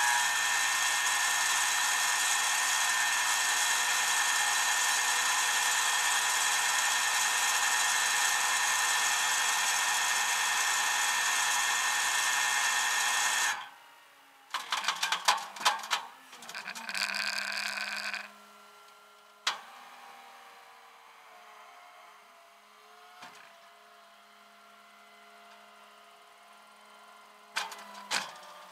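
A power tool running steadily at high speed for about thirteen seconds and then stopping abruptly, followed by a few seconds of clattering and short bursts of sound.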